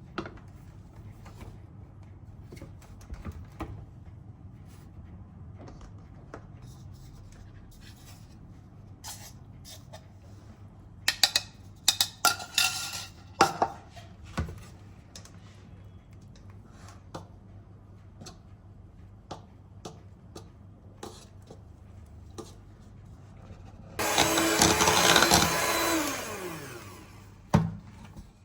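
Kitchen work with scattered clicks and clatter, then a small electric kitchen appliance motor runs loudly for about three seconds near the end and winds down.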